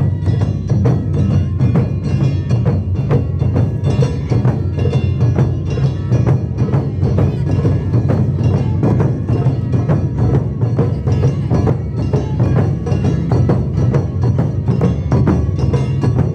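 Japanese taiko drums played live by an ensemble, a dense, driving rhythm of deep drum strikes with sharper, higher clacking hits over them, without a break.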